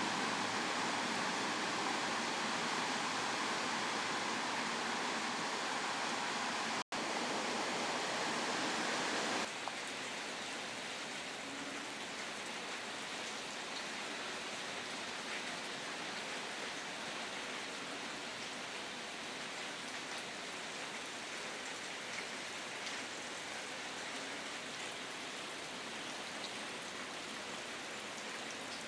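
Heavy rain pouring down in a storm, a steady rushing hiss. It drops out for a split second about seven seconds in and comes back, then eases to a slightly lower level a couple of seconds later.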